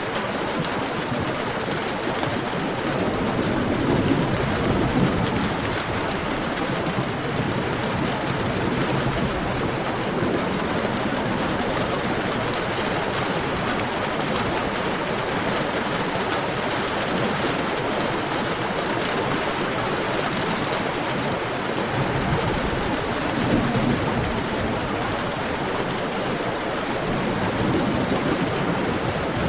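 Heavy rain falling steadily, a dense even hiss, with low rumbling swells rising and fading a few times, about four seconds in, again past twenty seconds, and near the end.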